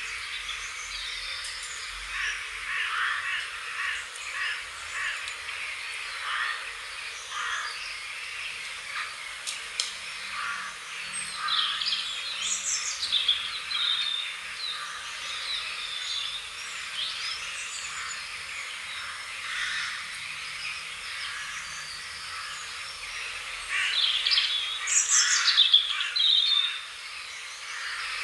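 Wild birds calling and singing, many short chirps and trills over a steady outdoor hiss, with a louder run of calls about three-quarters of the way through.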